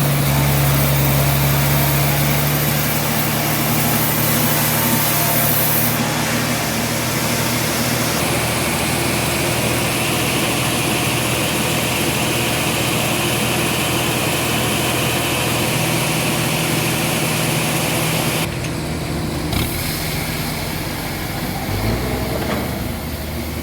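Sawmill machinery running steadily: a loud, even mechanical hum and whir, changing abruptly a few times.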